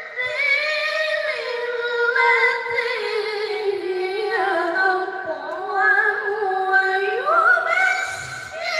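A high voice reciting the Qur'an in the melodic tilawah style, holding long, ornamented notes that climb to a higher pitch about seven seconds in, with a short breath near the end.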